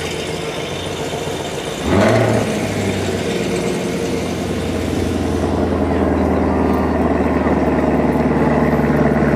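A car engine starts with a loud flare about two seconds in, then settles into a steady low idle alongside another engine already idling.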